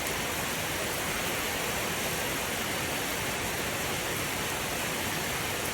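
Steady rain falling, a dense even hiss with no distinct drops or thunder standing out.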